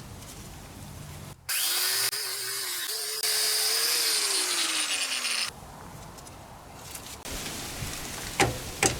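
A handheld power tool working on the car's underbody parts, running with a loud hiss and a whine for several seconds, then its pitch falling as the motor winds down. Quieter scraping and rubbing come before and after it, with a few knocks near the end.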